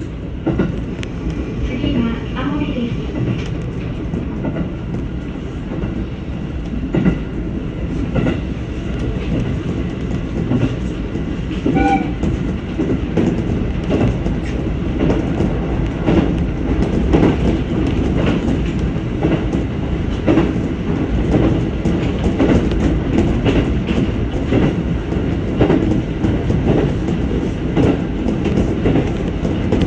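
Electric passenger train running along the track, heard from inside the car, with the wheels clicking over rail joints throughout.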